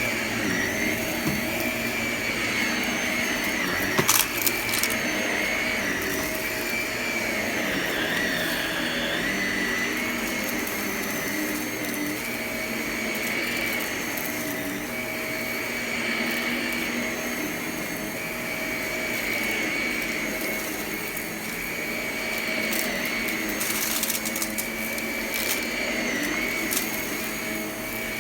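Upright vacuum cleaner running steadily with a high motor whine that wavers slightly in pitch. There are sharp clicks and rattles about four seconds in and again near the end, as crunchy debris is sucked up.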